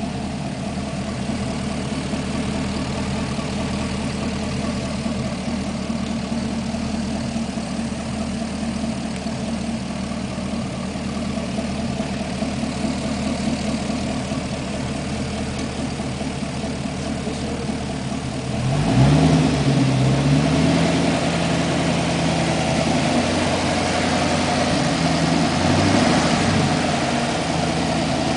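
Pontiac GTO's LS2 6.0-litre V8 idling steadily, then revved up about two-thirds of the way in and held at higher revs, rising and falling a little.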